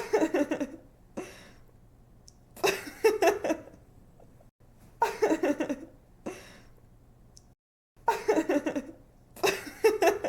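A young woman laughing in short giggling bursts, about five separate laughs a couple of seconds apart, each a quick run of breathy 'ha' pulses. A faint low hum sits under the laughter.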